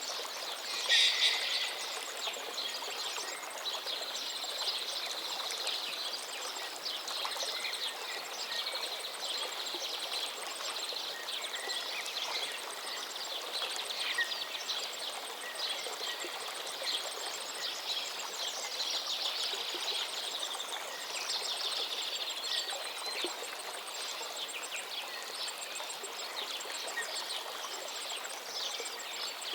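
A river flowing steadily with many birds chirping and singing over it, one call much louder than the rest about a second in.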